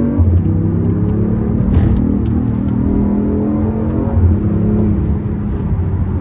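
BMW i8's 1.5-litre three-cylinder turbo hybrid engine heard from inside the cabin while driving, a loud steady drone with road noise. Its pitch drops briefly just after the start, then holds.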